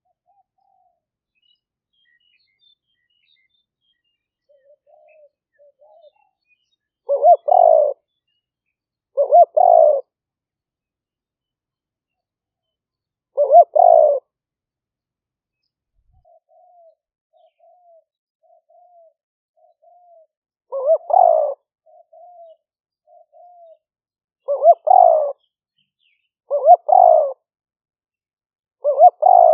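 Spotted dove cooing: loud coo phrases every few seconds after a quiet start, with runs of soft short coos between them near the middle. These are decoy-dove calls of the kind used to lure wild doves.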